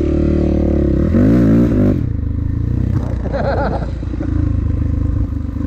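Dirt bike engine running under throttle while riding, its pitch rising and falling with the revs. The strongest revving comes about a second in, and a shorter rise comes about three and a half seconds in.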